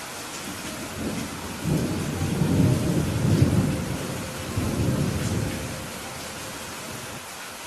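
Steady rain hissing, with a roll of thunder rumbling in about a second in, swelling twice and dying away before the end.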